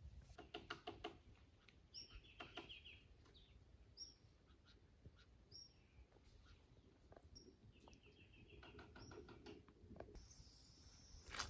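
Birds calling faintly: a short, high chirp repeats every second or two, with a couple of brief buzzy trills and some lower, quicker notes in between.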